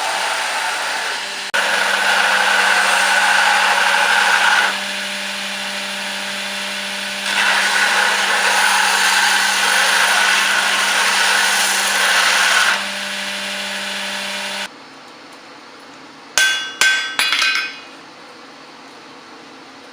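Electric grinder running and grinding steel in two long passes, louder while the steel is pressed to it and quieter between. It stops, then a few ringing hammer strikes on steel follow.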